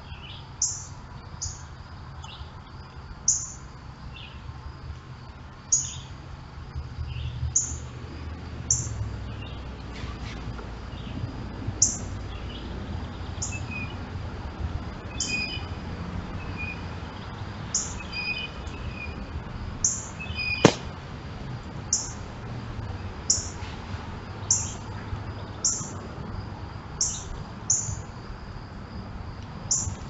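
Wild birds calling: a high, short chip repeated every second or two, with softer, lower calls from other birds in between, over a low rumble. One sharp click sounds about two-thirds of the way through.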